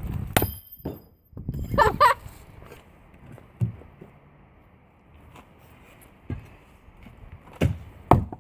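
Heavy striking blows: a sharp hit with a bright metallic ring about half a second in, then a few dull thuds spread several seconds apart.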